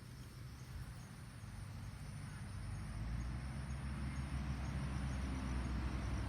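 Outdoor background noise: a low steady rumble that slowly grows louder, with faint thin high tones above it, such as insects might make.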